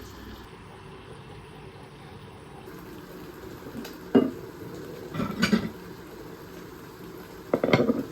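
Kitchen sounds while cooking: a steady bubbling like a pot on the boil, with three short clatters of cookware or utensils, about four, five and a half, and nearly eight seconds in.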